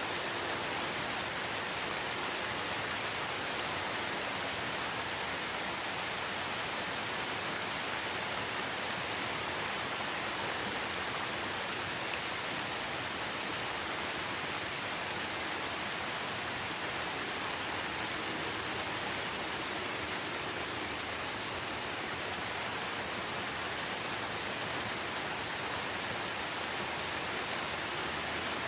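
Steady, even rain falling on foliage in a rainforest, a constant hiss of many drops with no distinct events.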